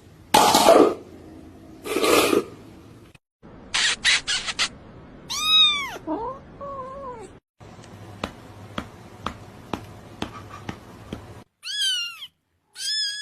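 Cats meowing, several short meows with falling pitch spread through the stretch. Between them come two loud noisy bursts near the start, a quick rattle of strokes, and a few seconds of evenly spaced clicks, about two a second.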